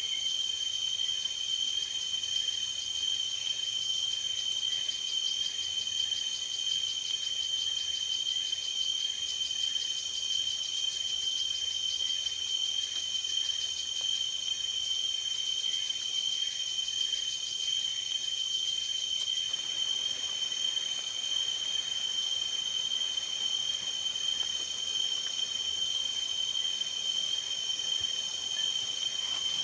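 Steady chorus of forest insects, one continuous high trill loudest, with several fainter trills higher up, unchanging throughout.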